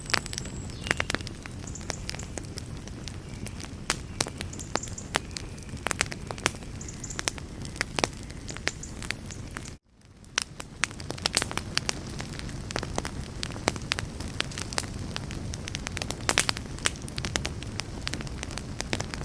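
Wood campfire crackling and popping: irregular sharp snaps over a steady low rush of flame. About ten seconds in the sound cuts out for a moment and fades back up, a loop seam.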